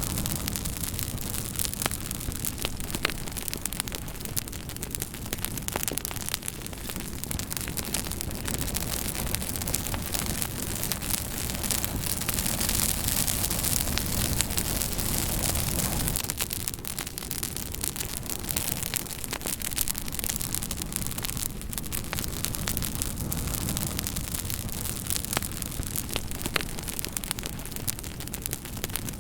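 Campfire burning, with a steady hiss and frequent sharp crackles and pops of burning wood. The hiss grows louder and brighter for a few seconds around the middle.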